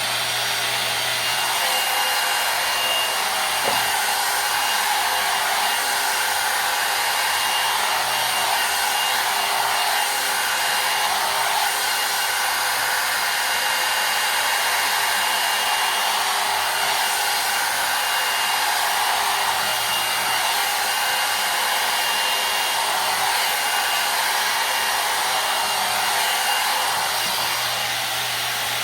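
Hot-air brush hair dryer (a one-step dryer and volumizer) running steadily while drying and brushing hair: an even rush of blown air with a faint, steady high whine.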